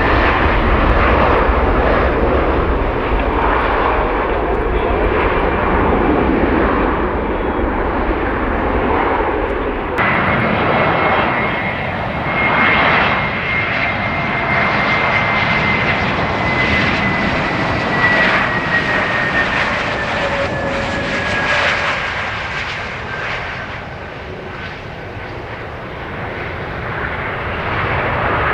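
Jet airliner engines running loud, with a sudden change about ten seconds in. After it, a high engine whine slowly falls in pitch as the aircraft passes and the sound eases off.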